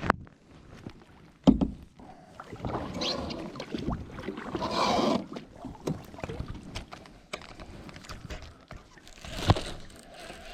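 Handling noise in a fishing kayak on the water: sharp knocks on the hull about one and a half seconds in and again near the end, with a louder stretch of rustling water and movement noise in between.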